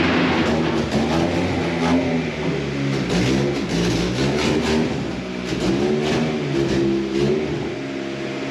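B20-swapped Honda Civic hatchback's four-cylinder engine revving through a 3-inch exhaust, its note rising and falling several times.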